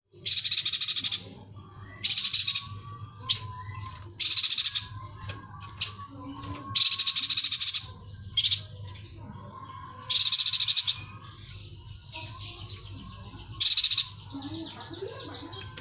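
Yuhina singing: loud, rapid buzzy trills about a second long, repeated every couple of seconds, with softer chirps in between.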